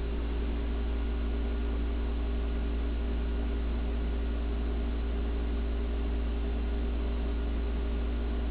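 52-inch Hampton Bay Gazebo flush-mount ceiling fan running steadily on high speed: a low motor hum with steady tones over the hiss of moving air.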